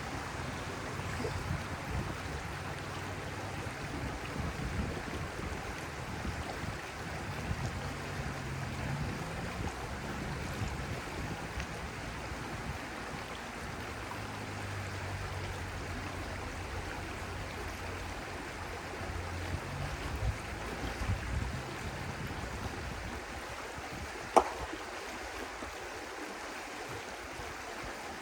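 Flowing water rushing steadily, with a low rumble underneath that dies away about 23 seconds in. A single sharp click sounds near the end.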